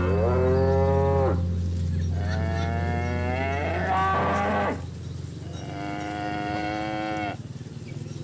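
Cows mooing: three long calls one after another, the first rising in pitch as it starts.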